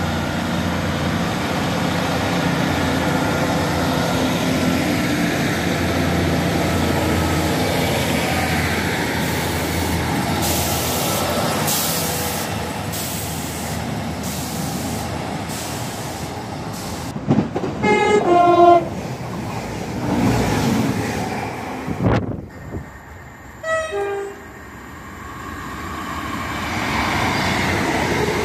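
British diesel multiple units: a Class 150 Sprinter's underfloor diesel engines running steadily, then trains passing with wheel and engine noise. A two-tone train horn sounds a short falling two-note blast about two-thirds of the way through, and again a few seconds later.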